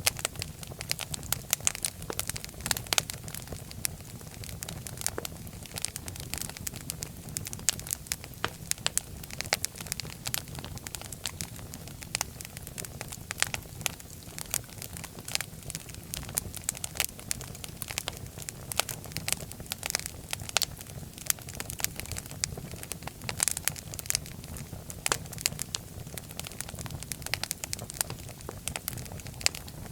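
Fire crackling in a fireplace: irregular sharp pops and snaps, several a second, over a low steady rumble of the flames.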